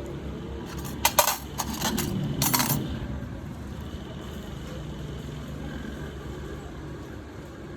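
A few sharp clinks and clatters of small hard objects about one to three seconds in, over a steady low hum.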